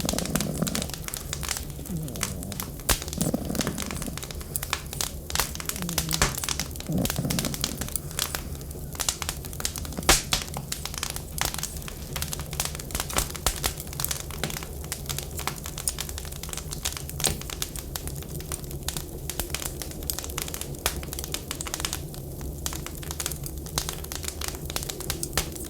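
Wood fire crackling with many small irregular pops, one sharper pop about ten seconds in, over a steady low hum. A few short, wavering tones rise and fall in the first eight seconds.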